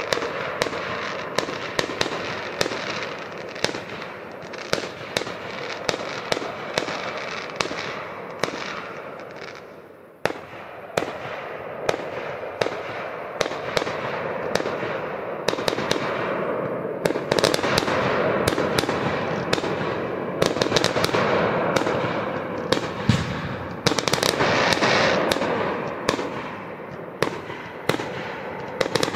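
Aerial fireworks going off: a rapid run of sharp bangs and pops over a continuous crackle and hiss. The barrage thins out and quietens just before ten seconds in, then a sudden bang starts it up again, growing louder and busier in the second half.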